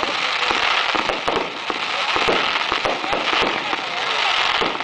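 Dense, steady crackling with many sharp pops and cracks going off all through.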